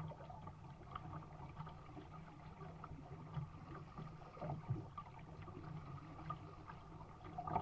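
Faint water trickling and lapping against a sailing dinghy's hull as it sails downwind, with scattered small ticks.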